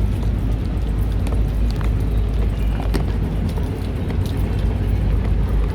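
Outdoor city street ambience: a steady low rumble of traffic, with scattered light clicks and knocks.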